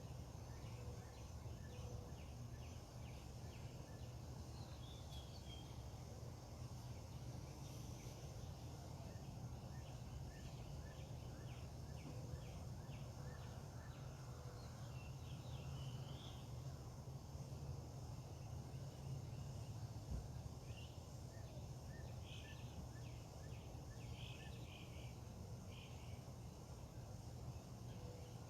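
Birds calling and chirping on and off over a faint, steady low hum of outdoor background noise.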